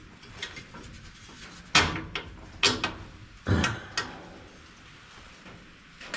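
Hand tools and bolts knocking and scraping against the steel of a round baler while a bolt is worked: a handful of sharp metallic clanks in the first four seconds, then quieter handling.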